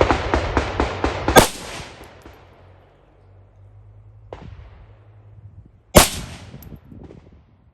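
Gunfire at an outdoor range: a rapid string of shots, about five a second, stops about a second in. Then come a single loud shot, a fainter shot some three seconds later, and another loud shot near the end, each echoing briefly.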